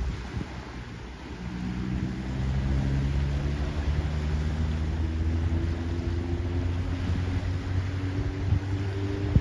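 Engine humming steadily, its pitch creeping slowly upward, over a low wind rumble on the microphone.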